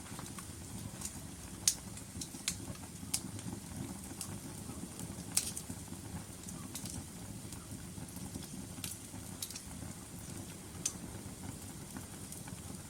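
Log fire in a fireplace burning, a steady low rush of flames with irregular sharp crackles and pops from the wood, the loudest pop about two seconds in.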